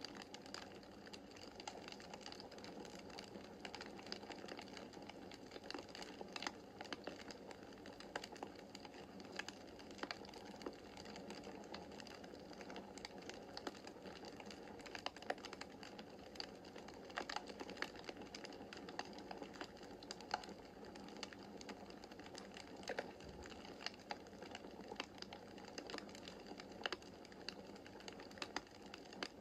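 Wood fire burning in a fireplace, crackling steadily with frequent small, sharp, irregular pops over a soft hiss of flame.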